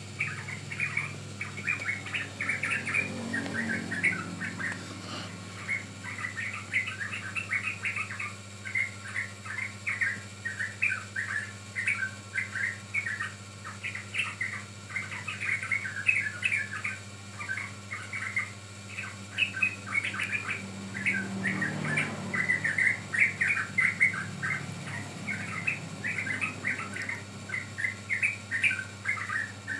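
Yellow-vented bulbuls (trucukan) calling, a busy run of quick, chattering chirps that goes on without pause, as used for a lure recording to set young bulbuls singing. A steady low hum lies underneath.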